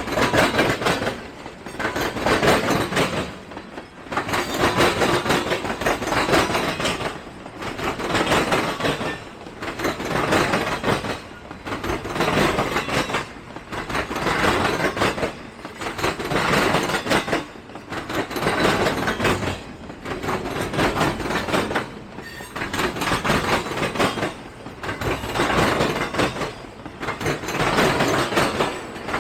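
Freight train cars rolling past, their wheels clattering in a regular surge about every two seconds as each car's wheels go by.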